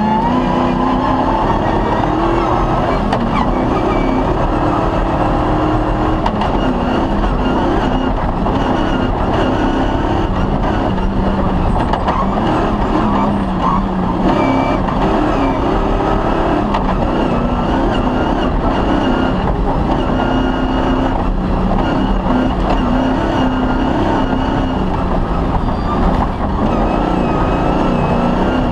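Cross-country rally car's engine running hard through a special stage, its note climbing and dropping again and again as it accelerates and changes gear, over a steady low rumble.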